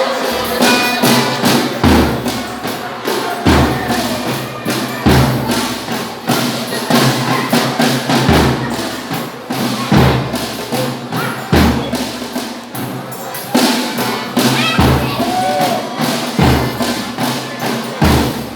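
Folia de Reis band playing: a deep drum beats about every second and a half, under steady jingling percussion like a tambourine.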